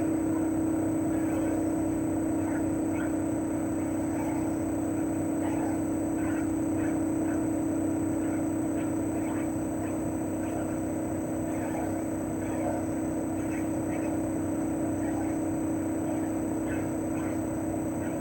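CHOFU AE-2844PX mini-split outdoor unit running in cooling mode: its GMCC single-rotary inverter compressor hums steadily, with the propeller fan's airflow noise and a faint constant high whine.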